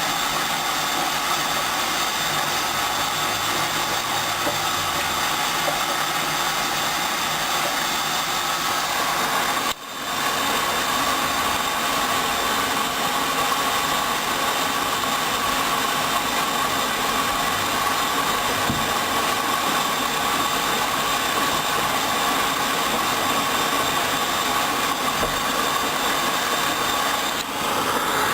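Hoover Dynamic front-loading washing machine running its second rinse: a steady rushing hiss. It drops out for a moment about ten seconds in, then carries on with a faint whine added.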